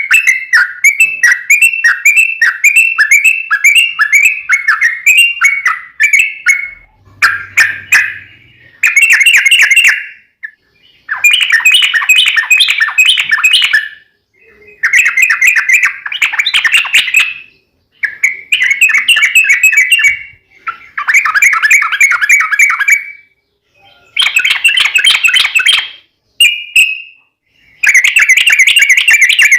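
Yellow-vented bulbul (trucuk) singing loudly in bubbling, chattering phrases. It starts with a long unbroken run lasting several seconds, then breaks into short bursts with brief pauses between them.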